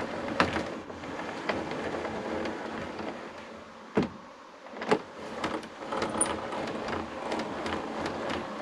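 Hand-cranked door window on a Peterbilt 362 cabover being wound with a newly fitted crank handle, the regulator and glass grinding and rubbing in the door. Sharp clicks come about four and five seconds in.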